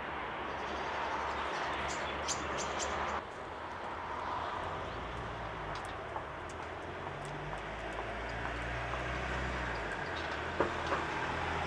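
A steady low motor rumble with a broad hiss, like distant traffic or machinery. A few short, high chirps from small tits come through about two to three seconds in, and the background changes abruptly about three seconds in.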